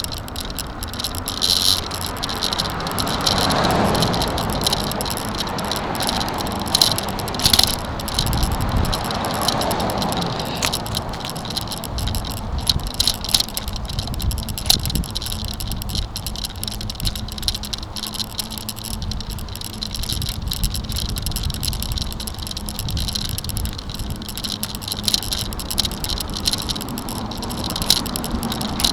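A bicycle rattling and clattering steadily as it is ridden over a bumpy path, with frequent small jolts and clicks.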